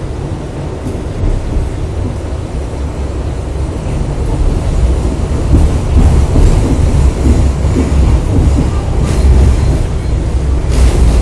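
New York City subway 7 train running along the track: a steady low rumble of wheels on rails that grows louder over the first several seconds, with a couple of sharp clacks near the end.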